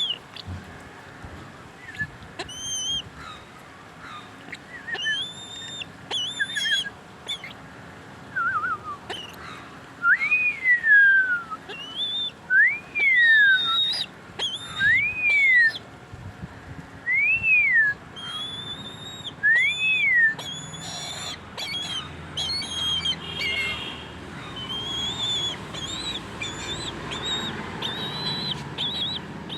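A bird calling in high, thin whistled notes, with a run of five arched whistles midway, each rising then falling, about one every two and a half seconds. Short clicks are scattered between the calls.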